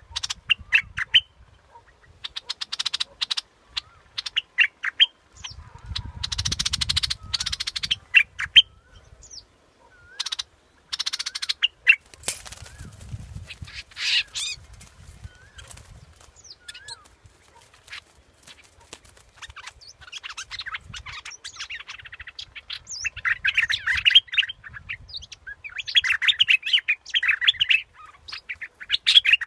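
Bulbul calling: bursts of quick chattering and chirping notes with fast rattles, repeated again and again, as in a lure recording of the bird.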